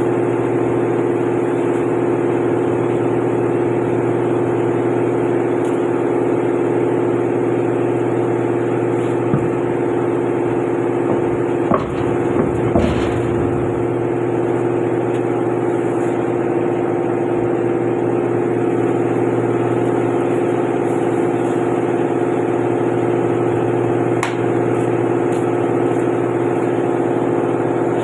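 A steady engine hum that holds one pitch throughout, with a few short metallic knocks and clicks about twelve seconds in and one near the end.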